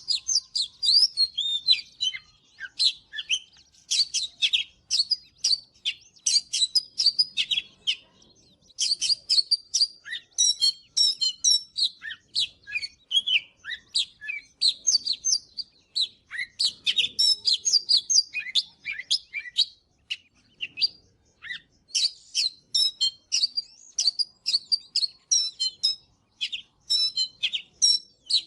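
Oriental magpie-robin singing: a fast, varied run of high whistles and chirps in phrases, with brief pauses about eight seconds in and again around twenty seconds.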